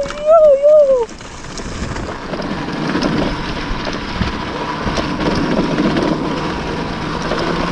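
Off-road motorcycle engine running on the trail, with wind on the microphone. A loud held tone wavers and falls away about a second in, before the engine takes over.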